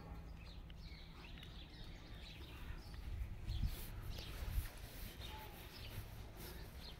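Small birds chirping, many short high calls scattered throughout, over a steady low rumble, with two low thumps about halfway through.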